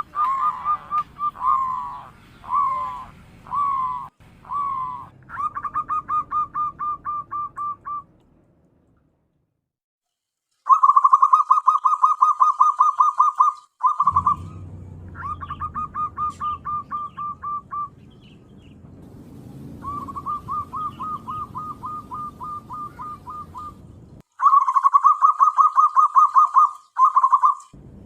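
Zebra dove (perkutut) cooing in phrases of fast staccato notes, repeated with short pauses and a silence of about two seconds near the nine-second mark.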